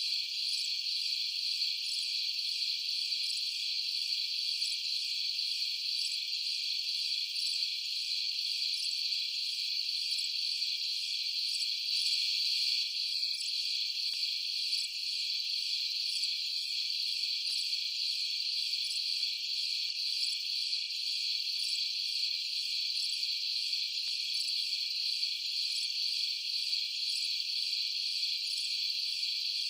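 Night chorus of crickets: a steady, high-pitched trill with a faint, evenly repeating pulse above it.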